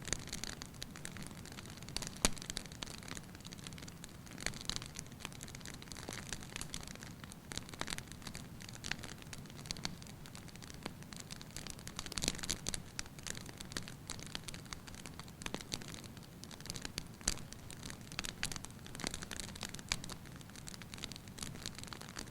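Fire burning in a fireplace, crackling with many small snaps and pops and a few louder ones over a soft steady background.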